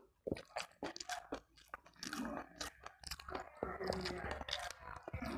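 A person chewing crispy fried food close to the microphone: a rapid series of sharp crunches, starting just after a brief hush at the beginning.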